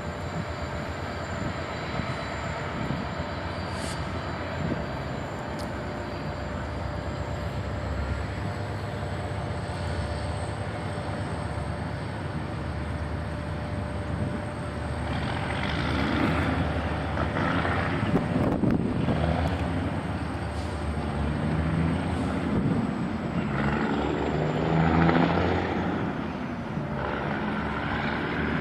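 Norfolk Southern ballast train's diesel locomotives, a GE Dash 9-44CW and an EMD SD60E, running with a steady engine drone that grows louder in surges from about halfway through as the train draws closer.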